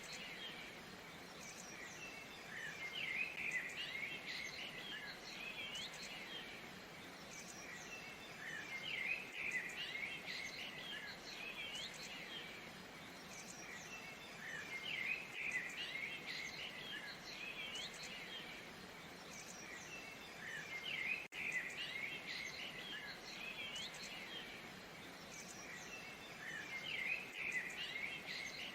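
Waterfall water running as a steady hiss, with songbirds chirping over it in bursts that come back about every six seconds.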